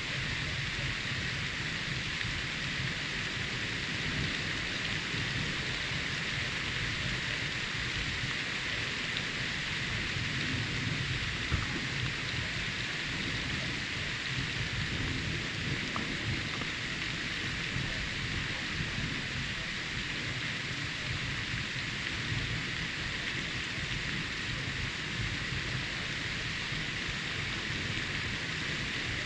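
Steady rain falling, an even hiss with a low rumble underneath that stays level throughout.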